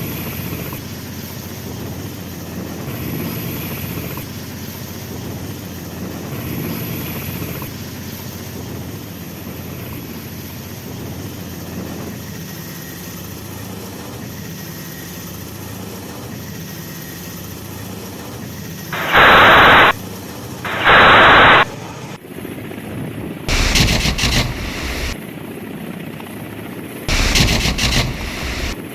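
Military helicopter running with a steady engine and rotor noise. About two-thirds of the way in it is broken by two loud bursts of about a second each, and more loud bursts follow near the end.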